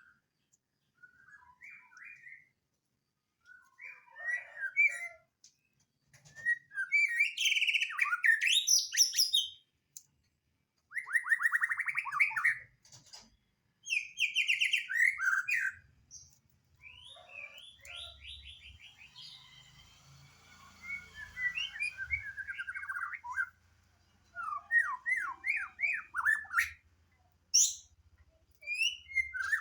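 White-rumped shama (murai batu) singing: varied phrases of rapid trills and whistles in bursts of one to three seconds, separated by short pauses.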